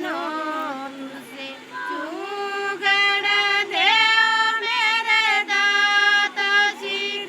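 Women singing a Pahari suhag, a traditional wedding folk song, with no instruments, in long drawn-out notes that bend at the phrase ends.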